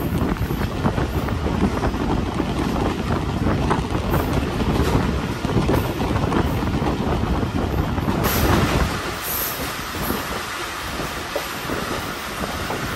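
Passenger train running along the track, its wheels clattering over the rails under a steady rumble. About eight seconds in the deep rumble falls away and a higher hiss takes over.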